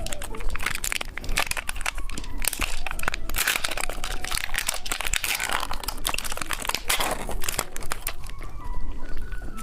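Plastic candy wrapper crinkling and being torn open, a dense irregular crackling that is heaviest through the middle.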